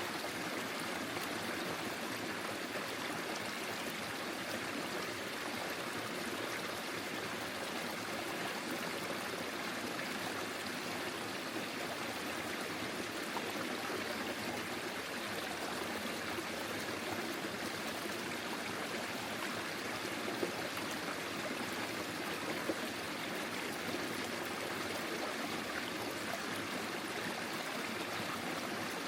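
Forest stream flowing steadily, water running and trickling over stones.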